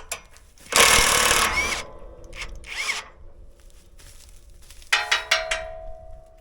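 Metal hand tools being handled: a loud scraping rub about a second in, then scattered clinks, and a quick run of metallic clicks near the end that leaves a short ringing tone.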